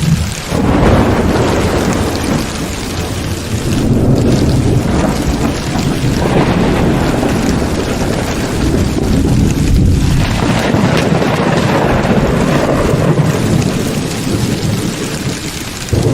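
Heavy rain pouring with thunder rumbling through it. The rumble swells and eases several times.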